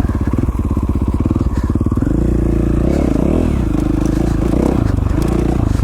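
KTM 450 XC-F dirt bike's single-cylinder four-stroke engine running while being ridden, its revs rising and falling several times as the throttle is worked.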